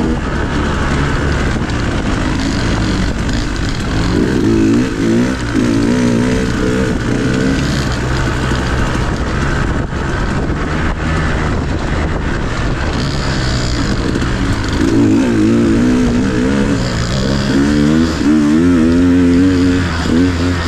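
Dirt bike engine running under way on a trail, its pitch rising and falling as the throttle is opened and closed, with stronger rev swings about four seconds in and again through the last several seconds.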